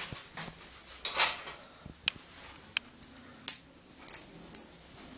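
Irregular light clicks and clinks of a small hard object as an Indian ringneck parrot handles it on a hard surface during a fetch-and-give trick, with a soft swish about a second in.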